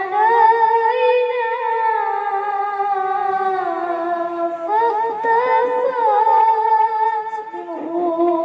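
A man singing sholawat solo, drawing out long held notes with ornamented turns that slide up and down in pitch.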